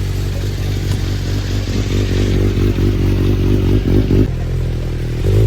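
Sport motorcycle engine running steadily at low revs on a dynamometer, its pitch wavering slightly about two to four seconds in.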